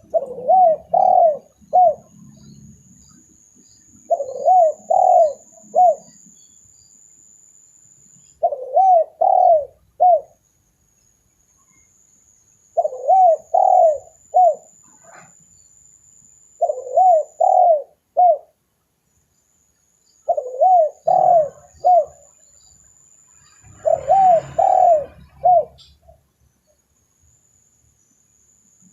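Spotted dove (tekukur) cooing, as used for a lure call: short phrases of three or four low, arched coos, repeated seven times about every four seconds. A faint steady high hiss runs underneath.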